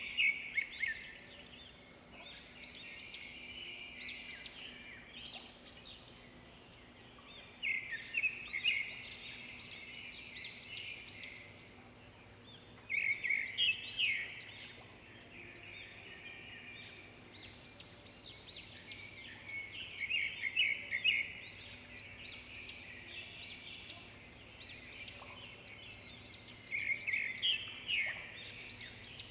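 Songbird song: phrases repeat about every six or seven seconds, each opening with a loud, rapid run of notes and trailing off into quieter, higher chirps. A faint steady low hum runs underneath.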